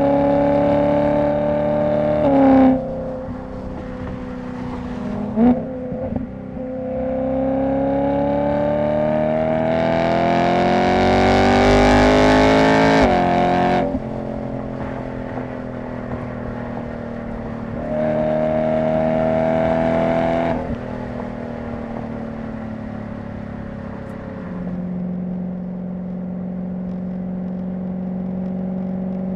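BMW E90 M3's S65 V8 exhaust note under way: the engine pulls with its pitch climbing, then drops sharply at each shift or lift-off, three times. It gives two short sharp blips a few seconds in, is loudest during the long pull in the middle, and settles to a steady low drone near the end.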